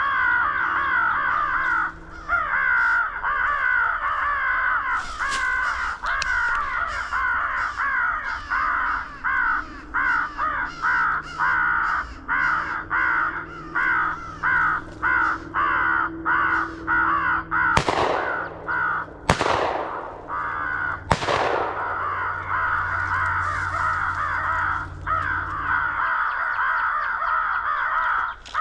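Electronic crow call playing a dense, continuous chorus of crow caws. About 18 seconds in, three shotgun shots ring out, roughly a second and a half to two seconds apart.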